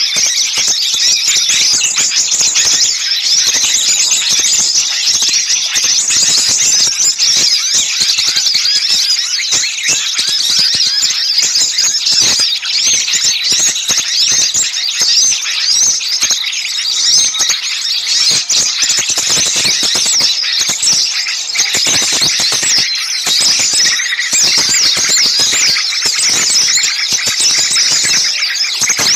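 Many small songbirds chattering and chirping noisily all at once, a dense, excited chorus of high, rapid calls with no pause. This is the kind of commotion used as a lure call to draw small birds in.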